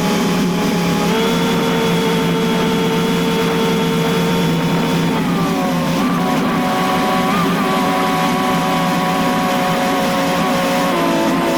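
Engine of farm machinery running steadily with a whining tone. The pitch steps up about a second in, drops around five seconds in, and dips again near the end as the engine speed changes.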